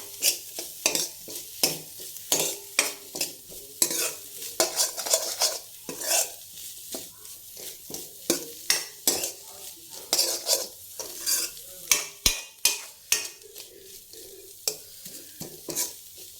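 A spoon scraping and knocking against a pan in repeated, irregular strokes as chicken and vegetables are stirred, with the food sizzling as it fries.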